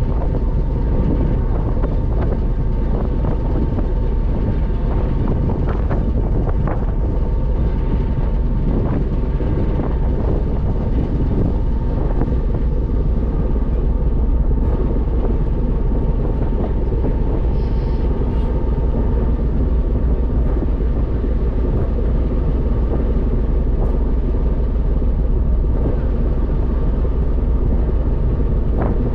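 A ferry's engine running steadily, a constant low drone with a faint steady whine that fades out about two-thirds of the way through.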